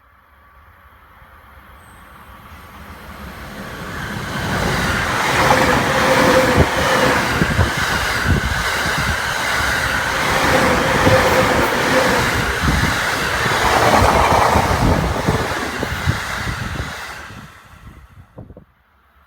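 An electric commuter train passing, growing louder over a few seconds, with a rapid run of wheel clacks over the rail joints and a steady motor hum, then dropping away quickly near the end.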